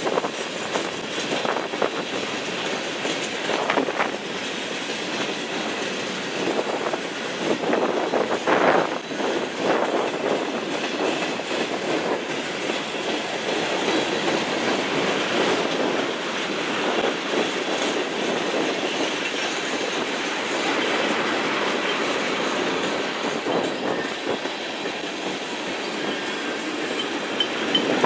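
Freight train of tank cars rolling past: a steady rush of steel wheels on rail, with repeated clanks and clatter over rail joints, busiest in the first several seconds.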